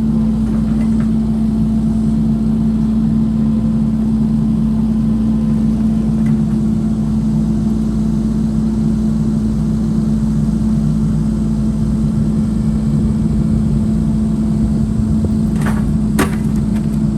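Chainsaw in a chainsaw mill running steadily at high speed, holding one even pitch as it rips a large log lengthwise. A couple of sharp clicks come near the end.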